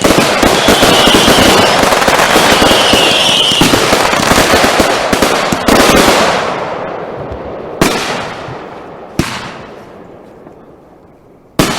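Consumer fireworks going off: a dense, rapid crackling barrage with two short high-pitched tones in it, ending in a loud bang about six seconds in. Single sharp bangs follow near 8 and 9 seconds and just before the end, each trailing off in a fading echo.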